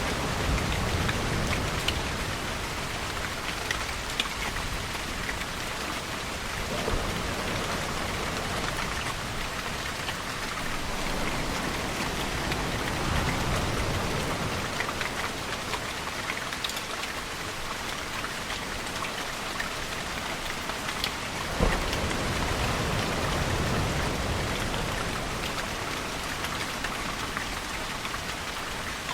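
Steady rain falling, with scattered close drips and low swells that rise and fade a few times. A sharp tap comes about 22 seconds in.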